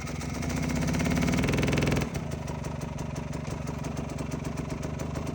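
Dirt bike engine revving up gradually, then dropping off sharply about two seconds in and running steadily at low revs.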